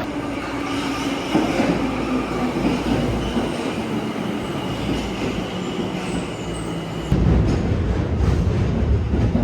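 Train ride heard from inside a passenger car: a steady running rumble of the wheels on the rails, growing heavier about seven seconds in.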